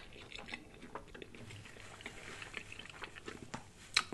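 Close-miked chewing of a mouthful of pizza: soft, wet mouth clicks and smacks at an uneven pace, with a sharper click near the end.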